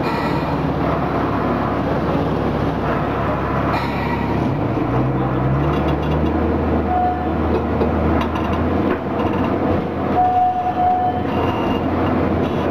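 Botchan Ressha replica steam locomotive's diesel engine running as the train rolls along street tram tracks, with a steady rumble of wheels on the rails. The engine note rises about five seconds in, and two brief high tones sound near the middle and about ten seconds in.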